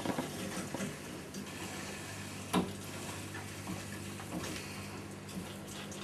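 Hot-water circulation pumps humming steadily with water rushing through the heating pipework. A single sharp click about two and a half seconds in.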